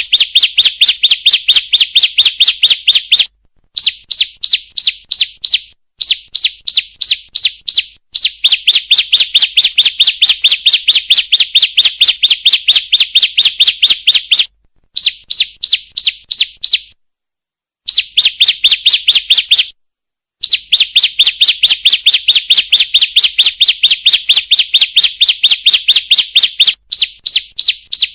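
Recorded lure call of a female bar-winged prinia (ciblek): a fast, even series of sharp high chirps, about three to four a second. The runs stop and restart several times with short gaps of complete silence.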